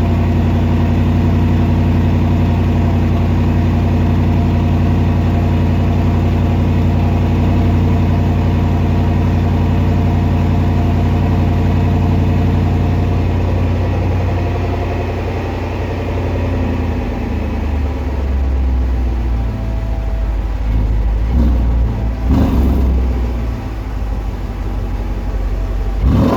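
Range Rover SVR's supercharged 5.0-litre V8 idling steadily at a raised cold-start idle, which settles to a lower, deeper idle about halfway through. A few short, louder noises come near the end.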